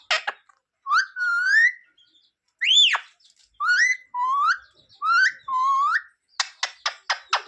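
Pet green parrot calling: a string of whistled notes that glide up and down in pitch, with a quick run of sharp, clicky chirps near the end.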